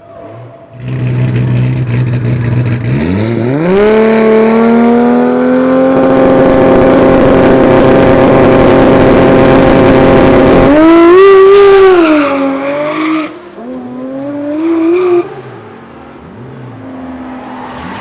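Modified Nissan Silvia's engine revving up and held at high rpm for several seconds with tyres squealing, then blipped twice and let off.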